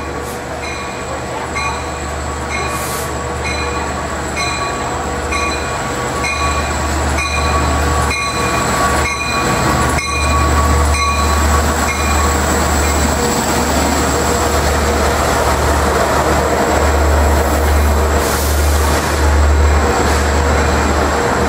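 A Long Island Rail Road DM30AC locomotive pulls a passenger train in along the platform: a low engine rumble with wheels running on the rails and a faint wheel squeal. Its bell rings about twice a second and stops about halfway through.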